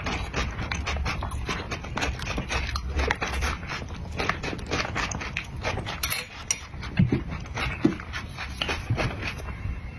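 Close-up wet eating sounds of cream cake being licked, smacked and chewed, with many rapid, irregular clicks.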